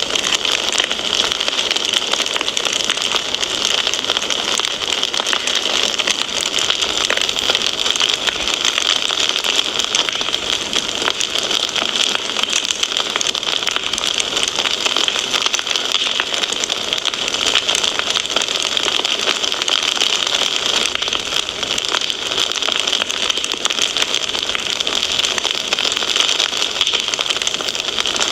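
Wood fire crackling steadily, a dense run of small pops and snaps without pause.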